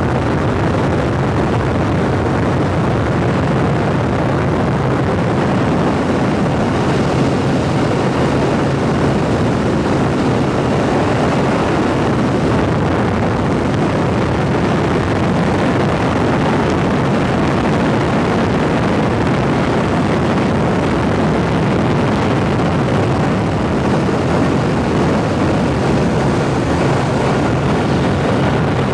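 Helicopter turbine and rotor running steadily in flight, a loud, even drone heard from inside the cabin.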